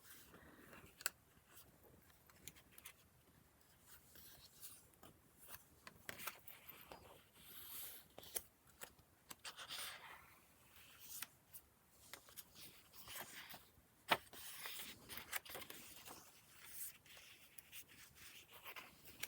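Faint rustling and scraping of paper pages being handled and turned in a handmade junk journal, with a few sharp clicks and taps in between.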